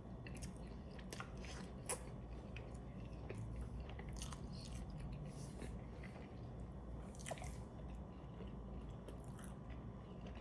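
Close-miked chewing of a mouthful of Double Big Mac burger: soft wet smacking and squishing, with scattered small clicks and one sharper click about two seconds in.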